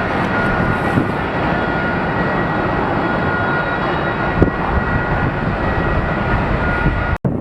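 Jet airliner engines running loud and steady, a dense rush with two high steady whining tones over it; it cuts off suddenly just before the end.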